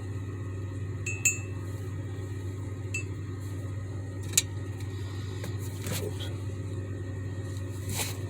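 A few short, light clinks, a couple of them ringing briefly like glass, spaced a second or two apart over a steady low hum.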